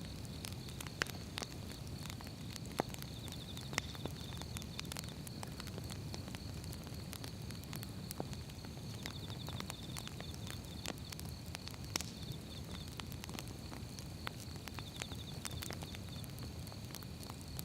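Firewood burning in a wood fire: a low steady rumble with irregular crackles and pops, the loudest pops about a second in, near three and four seconds, and at twelve seconds. A faint steady high tone with short trilling bursts runs underneath.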